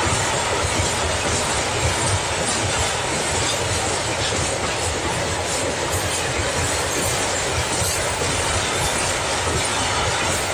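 Freight train passing steadily, its wagons' wheels rumbling on the rails with occasional clicks.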